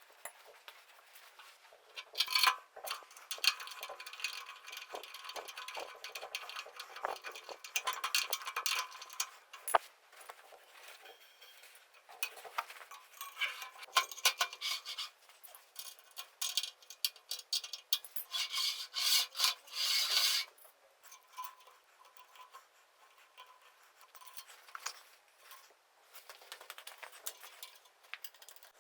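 Hand work on metal and wood parts: two long spells of scraping and rubbing with small metal clinks, then lighter clicks and taps.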